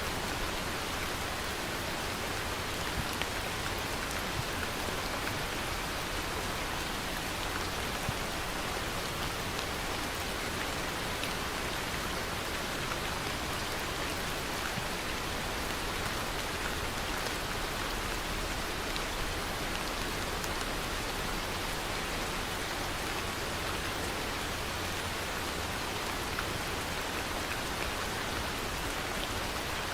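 Steady rain falling in an even hiss, with a few sharper drop taps now and then.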